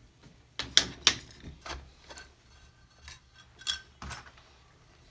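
Small metal tools and pieces handled on a jeweller's soldering bench: a string of about eight light clicks and clinks over four seconds, loudest about a second in.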